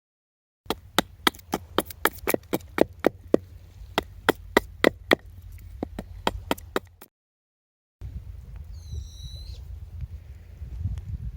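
A quick, irregular run of about two dozen sharp woody clicks, about four a second, lasting some six seconds. It stops abruptly, and a short high bird call follows about eight seconds in.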